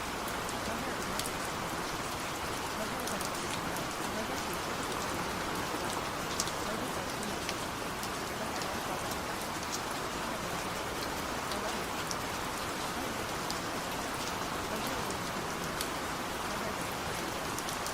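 Steady rain: an even hiss with scattered sharp drop ticks, unchanging throughout.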